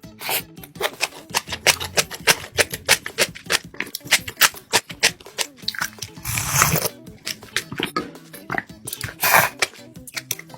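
Close-miked eating sounds of soybean noodles and kimchi: rapid, irregular wet chewing and crunching clicks, with two longer slurp-like rushes about six seconds in and about nine seconds in.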